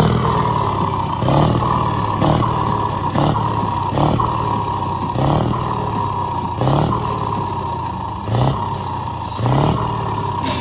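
Scania truck V8 engine running with eight sharp, short revs, one every second or so.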